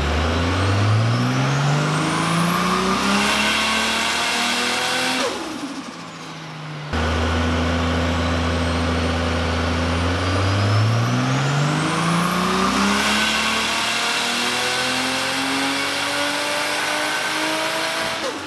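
Forged, turbocharged Nissan R31 Skyline engine making two full-throttle dyno pulls during a flex-fuel tune. Each time the engine note climbs steadily in pitch and then drops away as the throttle closes: the first pull ends about five seconds in, and the second, longer one runs from about ten seconds in to the very end.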